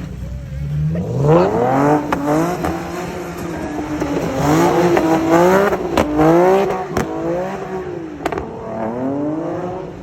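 Car engine revving up and down over and over, its pitch swinging high and low as the car is spun in the snowy lot. A few sharp clicks come around the middle.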